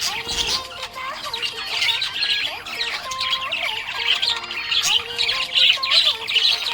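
Budgerigar chirping and chattering continuously, a dense run of quick high chirps and warbles.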